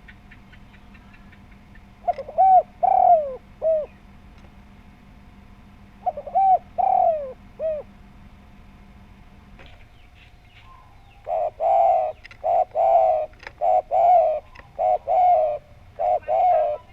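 Spotted dove cooing: two short phrases of rising-and-falling coos, then a longer run of quicker, evenly spaced coos from about two-thirds of the way through.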